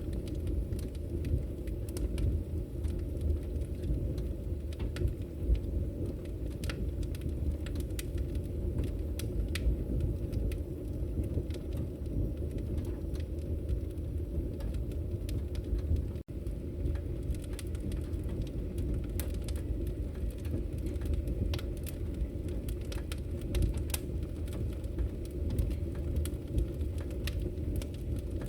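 Wood fire burning in a fireplace: a steady low rumble of flames with frequent sharp crackles and pops from the burning logs, broken by a momentary dropout about halfway through.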